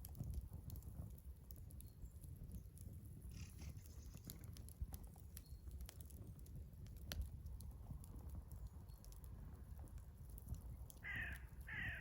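Wood fire crackling in a Skotti portable grill, with scattered sharp pops over a low wind rumble on the microphone. A crow caws three times near the end.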